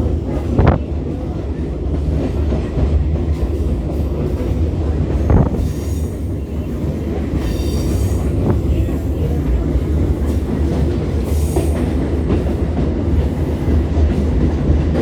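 Train running with a steady low rumble, broken by high-pitched wheel squeals three times and a couple of sharp knocks.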